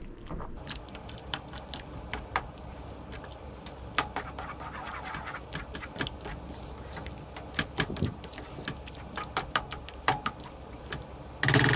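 Spoon stirring thickened soup in a pot, with irregular small clinks and scrapes against the pot and a wet sloshing, over a low steady hum. A louder clunk comes near the end.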